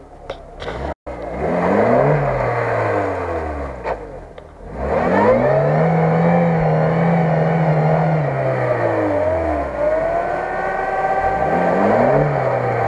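Lada Niva's engine revving up and dropping back three times as the 4x4 pushes through deep mud, the middle rev held high for a couple of seconds. The sound cuts out briefly about a second in.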